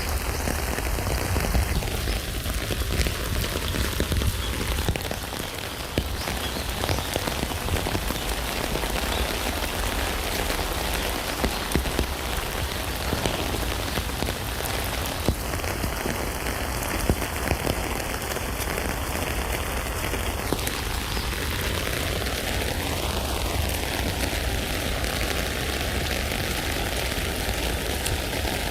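Steady rain falling on a tent: a dense, even patter of drops with scattered sharper ticks and a deep low rumble underneath.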